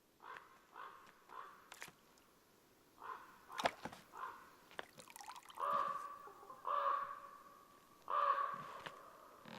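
Crows cawing: a series of harsh calls, short at first, then three longer caws in the second half. A sharp crack sounds about three and a half seconds in.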